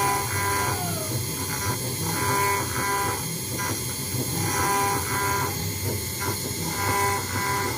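CNC router engraving machine running as it carves a brass plate: a steady spindle hum with stepper-motor tones that start, stop and change pitch in short stretches as the axes move.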